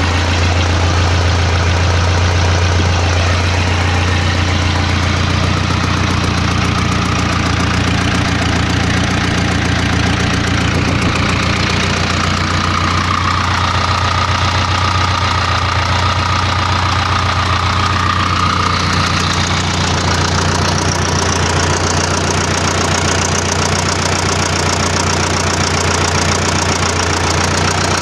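Deutz F4L912 air-cooled four-cylinder diesel engine running steadily at an even speed.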